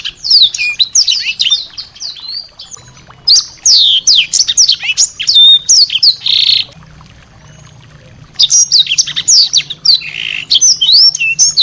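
A small songbird singing fast phrases of high, downward-sliding notes mixed with a few harsh rasping notes. The song stops for about a second and a half past the middle, then starts again as densely as before.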